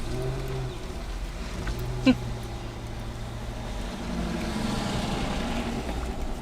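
Car running and rolling slowly, heard from inside the cabin: a steady low hum with road noise that swells a little past the middle. A short sharp chirp with a quick falling pitch about two seconds in.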